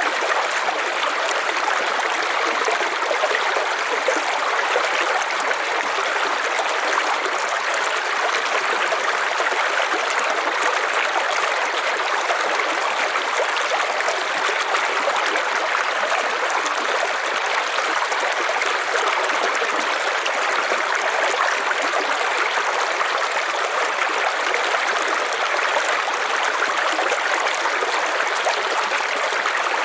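River water flowing steadily over stones, a continuous even rush with fine gurgling detail.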